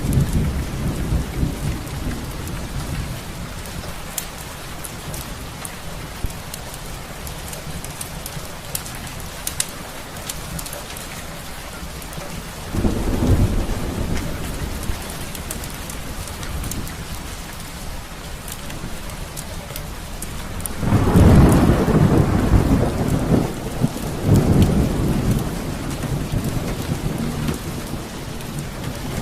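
Steady rain with rolls of thunder rumbling low: one near the start, one about halfway, and the loudest two close together near the end.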